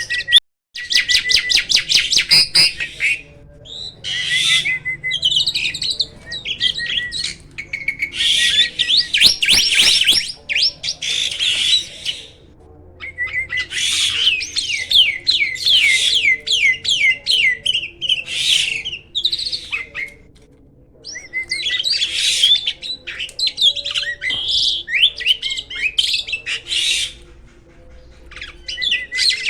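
A jalak (starling) singing a loud, varied, warbling song in phrases lasting several seconds, with a run of rapid clicks near the start and two short pauses partway through.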